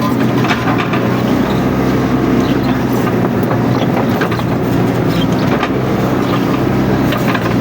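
Mini excavator's diesel engine running steadily under load, with scattered sharp cracks and clanks from the machine working through brush.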